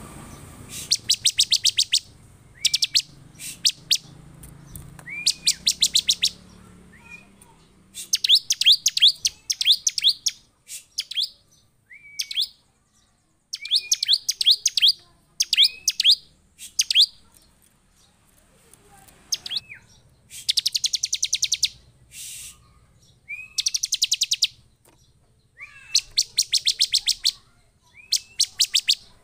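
Bar-winged prinia singing in repeated short bursts of rapid, sharp, high-pitched notes. Each burst opens with a short rising note. There are about a dozen bursts, separated by brief pauses.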